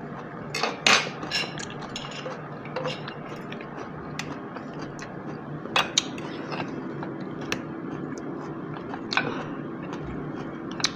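An eating utensil clinking and scraping against a dish in scattered sharp taps while scooping coleslaw, loudest about a second in, over a low steady hum.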